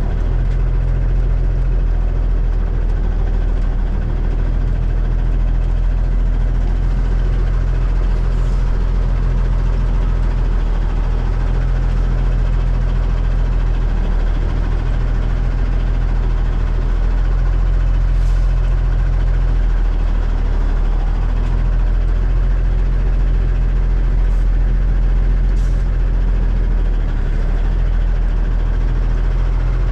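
Heavy diesel engine of a cabover semi truck idling steadily at low speed, with no revving.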